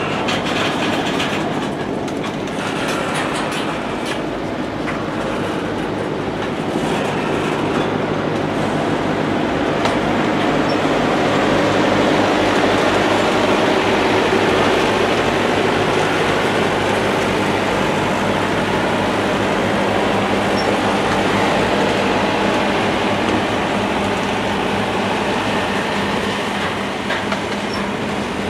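A train rolling past on the main line: a steady, loud rumble of wheels on the rails that swells a little after the first few seconds and holds.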